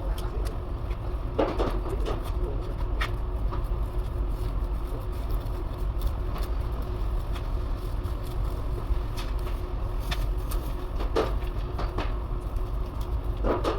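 Steady low rumble of workshop background noise, with a faint steady hum and a few light knocks and clicks scattered through it.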